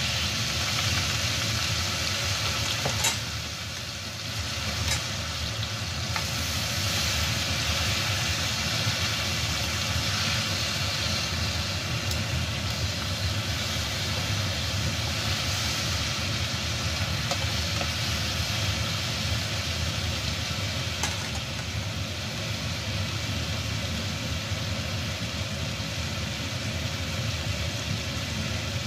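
Pork spareribs sizzling in a wok just after light soy sauce goes in, a steady frying hiss over a low hum, with a few sharp clicks of metal tongs against the pan.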